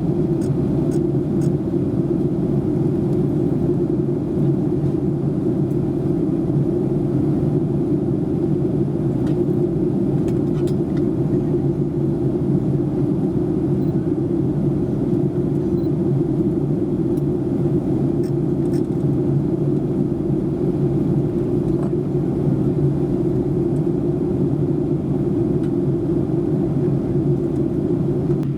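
Steady cabin noise inside a Boeing 737-800 in flight: the even rumble of its CFM56 turbofans and the airflow over the fuselage, with most of its weight low down and no change in level.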